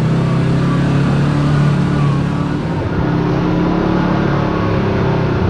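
Side-by-side UTV engine running steadily under the riders while driving a trail, easing off briefly about three seconds in.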